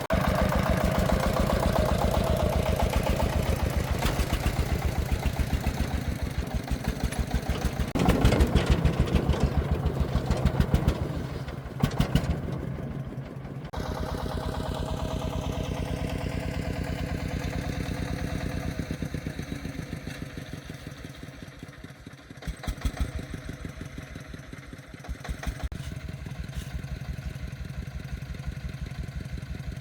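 Single-cylinder diesel engine of a công nông agricultural vehicle running with a steady beat of firing strokes. It gets louder about a third of the way in, drops back, falls quieter after two-thirds, then picks up again.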